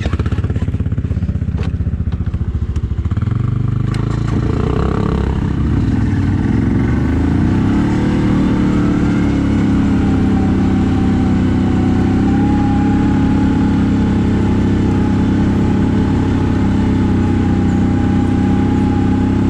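CFMoto CForce 1000 ATV's V-twin engine under way, with light knocks in the first few seconds, then pulling up to speed about four seconds in and holding a steady pace. A steady high whine sits above the engine note from about halfway through.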